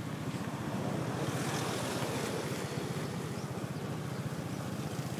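Motorbike engine running with a low, fast, even throb, with wind rushing over the microphone.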